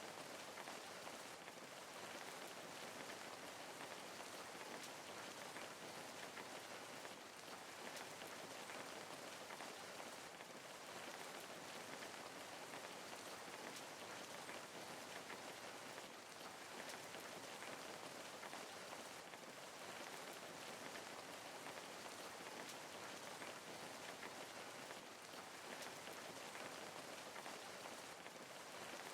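Steady, fairly faint rain, the patter of many drops falling on a surface, evenly without breaks.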